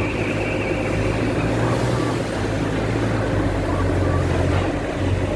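A large engine running steadily, a continuous low drone with no change in speed.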